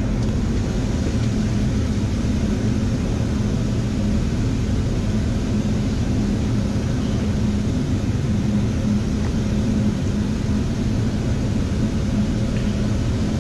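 Steady flight-deck noise in a Boeing 737-800 on final approach: even rumble of airflow and engines with a constant low hum.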